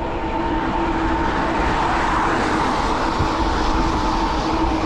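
Riding noise on a fat-tyre electric bike on the road: a steady rush of wind and tyres with a steady whine from the Bafang rear hub motor. The rush swells a little around the middle.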